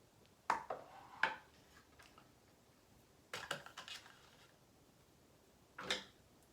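Small metal parts and hand tools clinking and knocking during assembly of a radio-controlled helicopter: a few quick clicks about half a second in, another cluster around three and a half seconds, and one sharp knock near six seconds.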